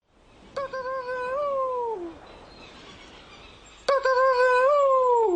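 Two long, loud human calls, each held on one pitch and then falling away at the end. These are strange noises made to lure Providence petrels down to the ground.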